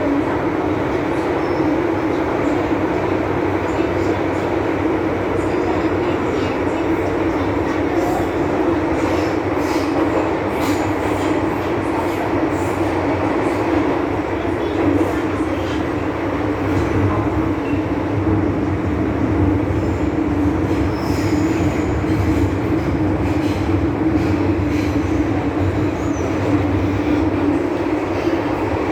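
MTR M-Train electric multiple unit running between stations: a steady rumble of wheels and motors with a strong hum, and brief high squeaks and clicks from the wheels on the rails in the middle stretch.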